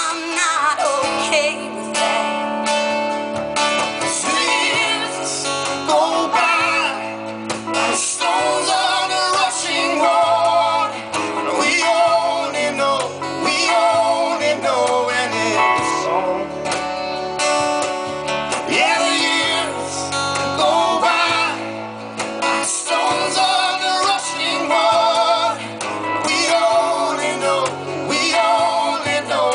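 Live band performance of a ballad: a woman singing lead with a wavering vibrato over guitar and a steady low band backing.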